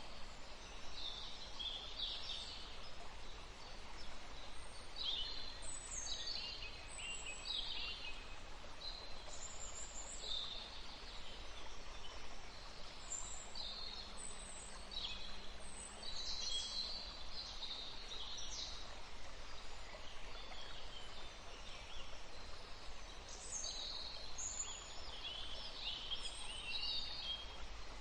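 Small birds chirping: many short, high chirps and calls, several overlapping at times, over a steady outdoor hiss.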